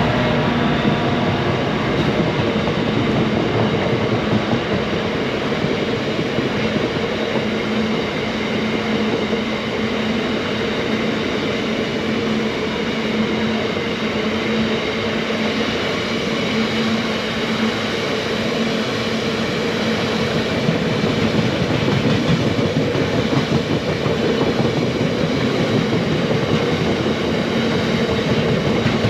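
A train running past on the track, with a loud, steady wash of wheel and rail noise and a faint steady hum underneath.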